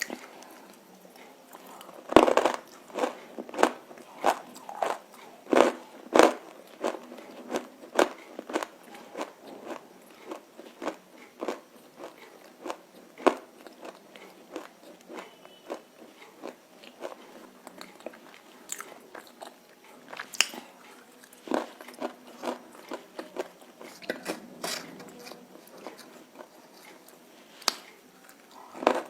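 A person biting and chewing crunchy roasted nakumatt with red clay paste: a run of sharp, irregular crunches and crackles. The loudest bites come about two seconds in, near six seconds and twice more late on, with quieter chewing crunches between.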